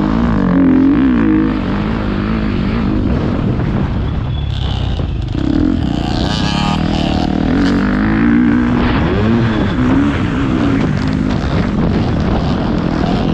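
Motocross bike engine revving up and down repeatedly as it is ridden, its pitch rising and falling every second or two.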